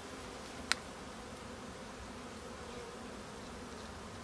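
Honey bees buzzing steadily around an opened hive, many of them in the air after frames were shaken out, with faint wavering pitches as individual bees fly past. A single sharp click about a second in.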